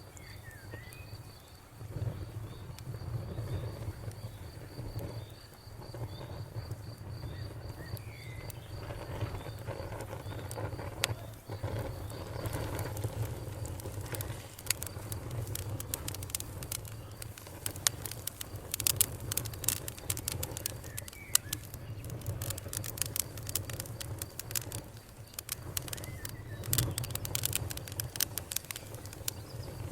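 A campfire crackling, with frequent sharp pops that come thicker in the second half over a low steady rumble of burning. Birds chirp now and then. For the first dozen seconds a high, even, pulsing trill runs alongside.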